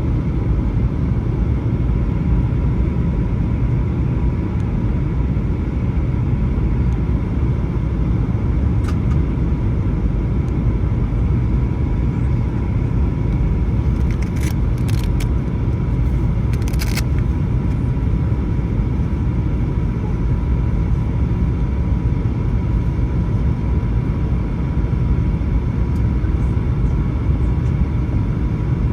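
Steady cabin noise of a Boeing 737-900 descending on approach: a low, even rumble of engines and airflow heard from inside the cabin, with a thin steady tone over it. A few faint clicks come about halfway through.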